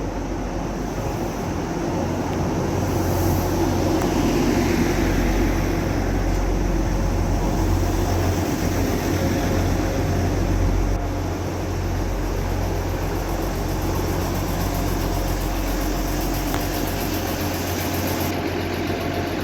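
A train running at the station: a steady low hum with rumble, loudest about four to ten seconds in and easing a little just after eleven seconds.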